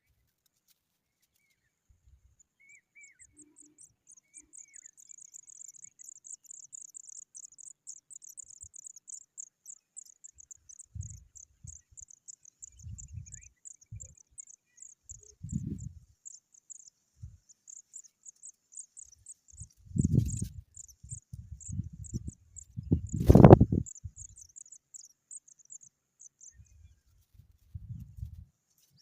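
An insect, cricket-like, trilling in a fast, high-pitched pulsing chirr that goes on for most of the time, with scattered low rumbles and thumps; the loudest is a sharp knock about two-thirds of the way through.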